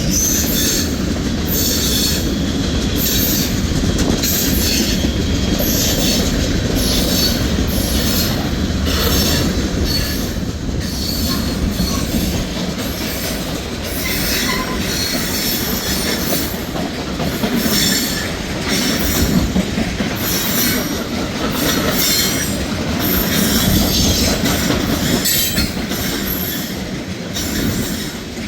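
Freight train cars rolling past with a steady rumble and wheels clacking over the rail joints of a track crossover, broken by frequent short high-pitched wheel flange squeals as the cars take the curve.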